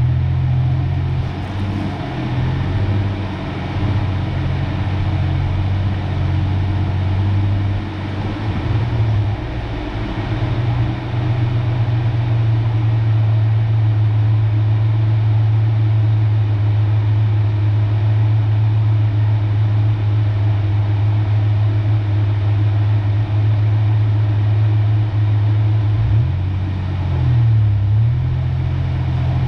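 1993 Ford Ranger's engine running while the truck drives along, a steady low drone that shifts in pitch about ten seconds in and again near the end.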